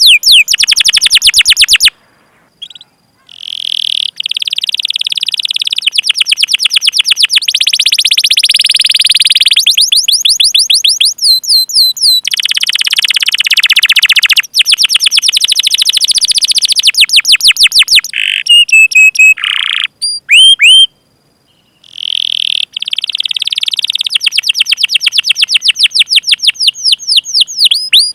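Domestic canary singing a long song: rapid trains of repeated high, falling chirps ('cuit cuit') and fast rolling trills, broken by a couple of short pauses.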